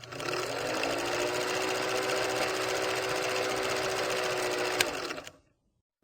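A small motor running with a steady mechanical whirr, then cutting off abruptly about five seconds in, just after a sharp click.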